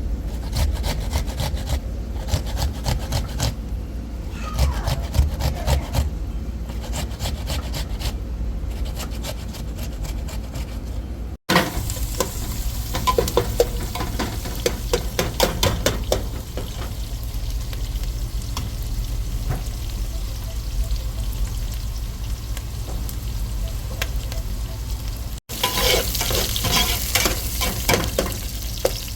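Food sizzling as it fries in a pan while being stirred, with frequent irregular scrapes and clicks of the utensil against the pan. The sound drops out sharply twice, about eleven seconds in and again near the end.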